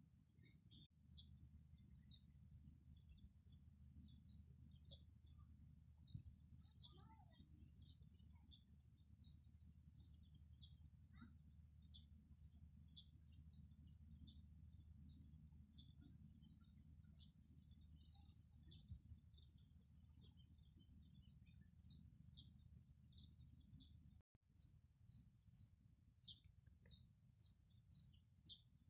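Small birds chirping faintly in short, high calls, over a low steady rumble. After a brief cut about three quarters of the way in, the chirps become louder and come in a regular run of two to three a second.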